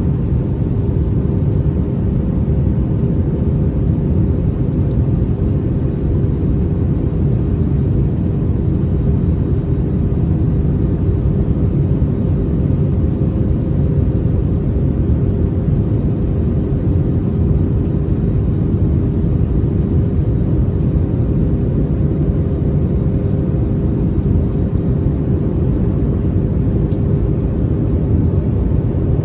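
Airbus A321neo in flight: a steady, loud low rumble of engines and airflow with a few faint constant hums over it, typical of cabin noise during the climb.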